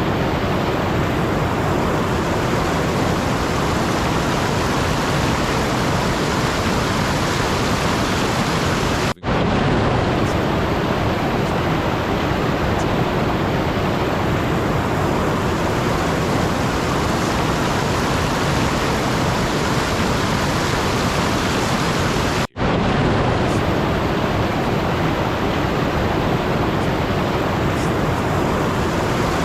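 Steady, even rushing noise, like static, that cuts out for an instant twice, about nine and twenty-two seconds in.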